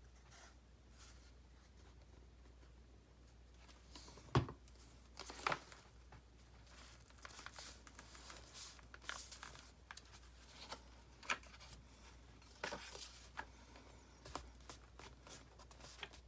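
Paper being handled and folded: quiet at first, then a sharp tap about four seconds in followed by intermittent rustling and crinkling.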